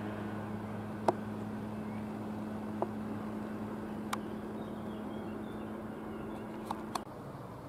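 RWE Hambachbahn electric lignite train running away into the distance: a steady low hum that slowly fades, broken by a few sharp clicks, and it cuts off abruptly near the end.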